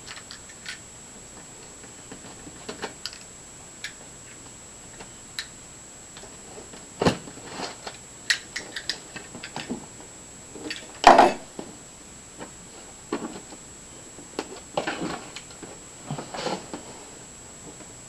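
Cardboard box and packaging being handled and opened by hand: scattered rustles, scrapes and light knocks, with one louder knock about eleven seconds in.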